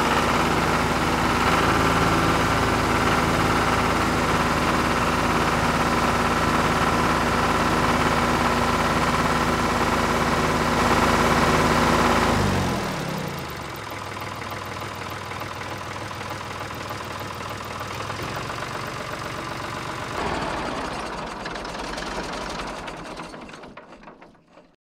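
Tractor engine idling steadily with a knocking beat. About halfway through it drops to a quieter, thinner running, swells once, then fades out near the end.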